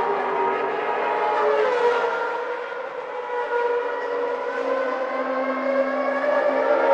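1991 Formula One car engine running at high revs, a high whine whose pitch sinks slowly a little after the start and climbs again toward the end.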